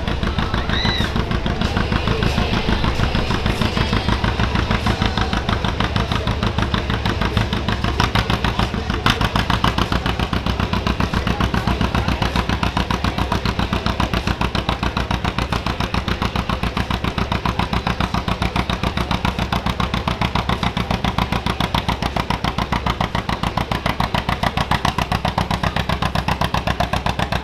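John Deere 80 two-cylinder diesel tractor working hard under load as it pulls the sled down the track, its exhaust beating in a fast, even rhythm.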